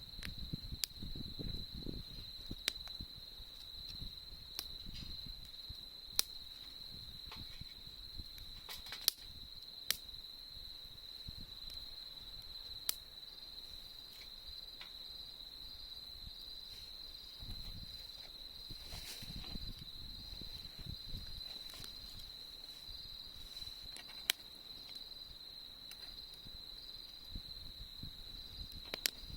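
Autumn insects singing in one steady, unbroken high trill, with a campfire's wood crackling in sharp single pops every second or two.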